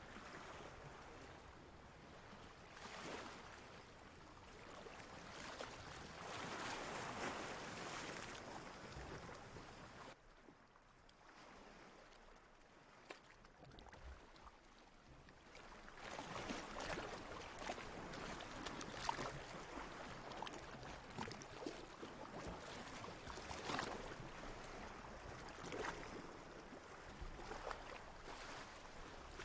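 Water washing and splashing in slow swells, with a quieter lull about a third of the way in and then livelier splashes.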